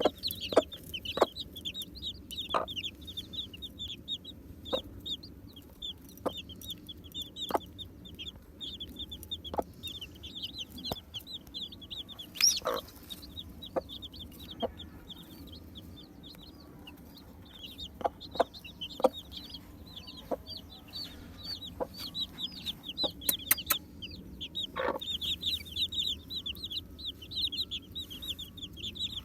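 A group of baby chicks peeping: many short, high chirps in quick succession, thinning out for a few seconds midway before picking up again. Scattered soft taps sound among the peeps.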